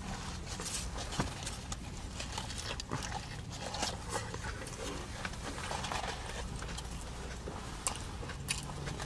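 Close-up wet chewing and lip-smacking of a mouthful of sushi burrito, a steady run of small irregular clicks and crackles, over a steady low hum.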